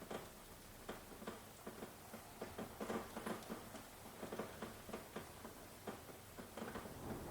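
Rain dripping and pattering: irregular close drops ticking on a hard surface, several a second, over a faint hiss of rainfall.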